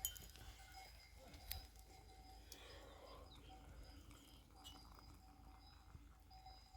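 Near silence: faint outdoor ambience with a low rumble and a couple of soft clicks.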